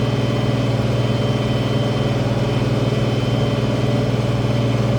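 International 1566 tractor's turbo-diesel engine running at a steady speed under load while pulling a field cultivator, with a thin steady whine over the low drone.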